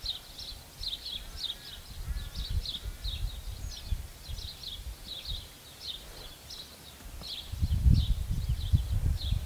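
A small bird chirping over and over in short, quick high notes, about two or three a second. Underneath, gusts of wind rumble on the microphone, loudest near the end.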